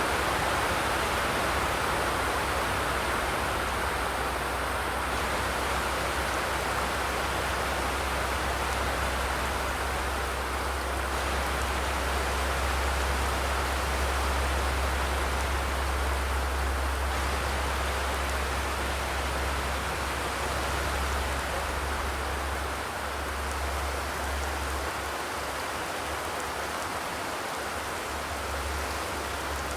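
Steady rain drumming on a corrugated zinc roof, an even hiss with a low rumble underneath that thins out about two-thirds of the way through.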